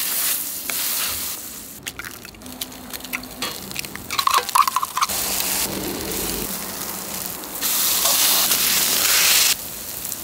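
Egg, ham and bread frying on a hot flat-top griddle: a steady sizzle that jumps abruptly louder or quieter several times. There is a brief clatter about four seconds in.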